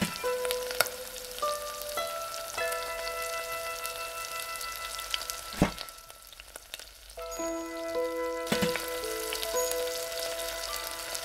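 Beef dumplings sizzling and crackling in oil in a frying pan, with a few sharp clinks from a glass pan lid being lifted off and set back on. Soft background music with held notes plays over it.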